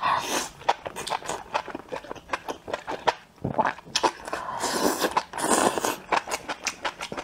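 Close-miked eating of spicy enoki mushroom skewers in sauce: biting and chewing, with many quick wet mouth clicks and a longer noisy stretch about four to six seconds in.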